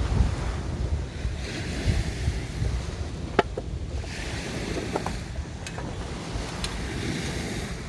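Sea waves washing on the shore in swells, with wind buffeting the microphone and a few short ticks.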